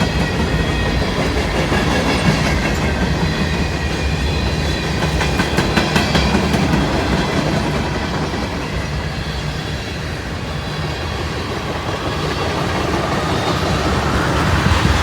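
Freight cars of a CSX manifest train rolling past, steel wheels clattering rhythmically over the rails in a steady loud rumble.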